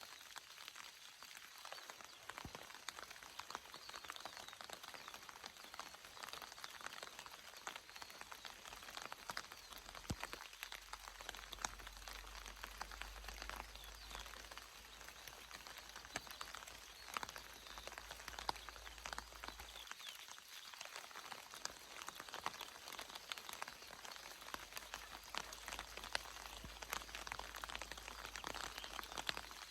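Steady rain falling, with many separate drops ticking on surfaces. A faint low rumble comes in about ten seconds in, drops out near twenty seconds, then returns near the end.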